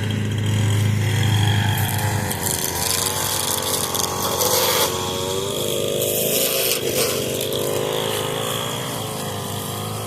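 Echo SRM 225 two-stroke string trimmer running at low revs, its engine pitch wavering, with brief hissy flares about five and seven seconds in. Under it is the steady low drone of a Craftsman riding mower's Briggs & Stratton engine, which is louder in the first couple of seconds.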